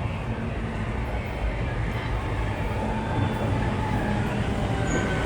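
GO Transit commuter train approaching the station platform: a steady low rumble that grows slightly louder.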